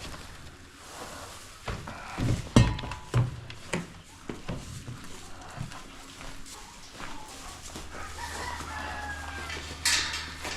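Chickens clucking and a rooster crowing, with several dull thumps about two to four seconds in.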